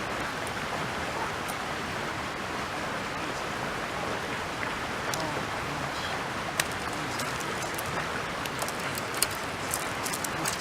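Steady rush of flowing stream water, with scattered sharp small clicks, more of them in the second half.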